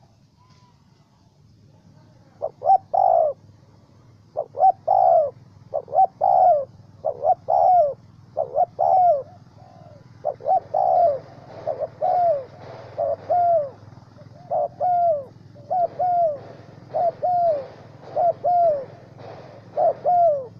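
Spotted dove cooing over and over: each phrase is a short note followed by a longer falling one, repeated about every second and a half from about two seconds in.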